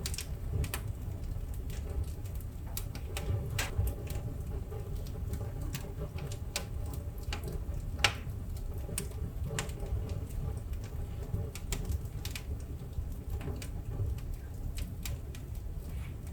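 Wood fire burning: irregular crackles and pops from the burning logs over a low, steady rumble of the flames, with one sharp, louder pop about eight seconds in.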